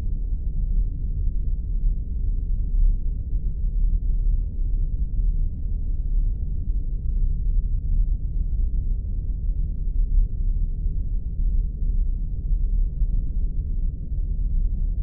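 Spaceship sound effect: a steady, deep rumbling drone of the kind used for a starship's engine or interior hum, unbroken and with no high sounds above it.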